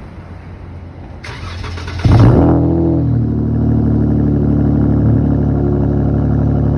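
Dodge Charger engine being cold-started. The starter cranks for about a second, the engine catches with a loud flare about two seconds in, and then it settles into a steady idle.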